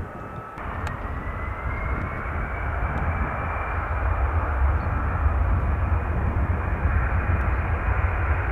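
Jet airliner's engines heard from the ground: a low rumble with a whine that rises slightly in pitch, growing louder over the first few seconds and then holding steady.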